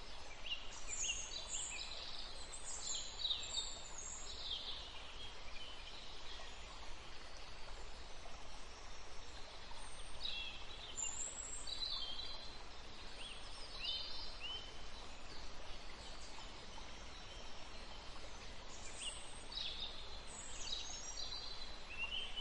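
Birds chirping in short, high, sliding calls over a steady hiss, in three spells: at the start, in the middle and near the end.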